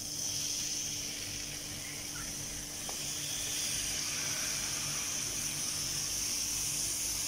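Onion and spice masala sizzling steadily in a frying pan while chopped tomatoes are tipped in, the sizzle growing a little louder a few seconds in.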